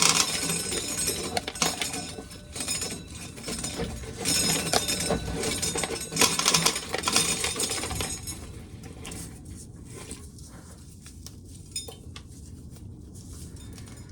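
Irregular clinking and rattling of hard objects being handled, busiest for about the first eight seconds, then sparser and quieter.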